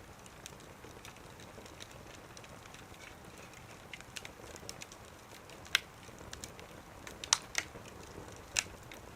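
Wood fire crackling in a small wood stove: a low steady hiss with scattered small ticks and a few sharp pops, the loudest about halfway through, twice more close together later, and once near the end.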